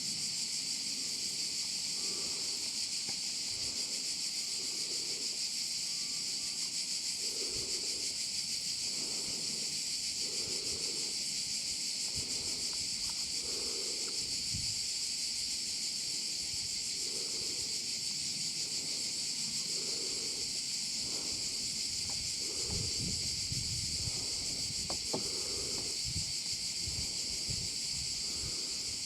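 A steady, dense chorus of insects buzzing high and continuously, with faint low rumbles in the second half.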